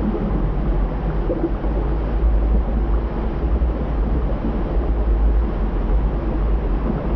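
Volcanic eruption with flowing lava: a loud, continuous deep rumble under a rough, churning noise, steady throughout with no breaks.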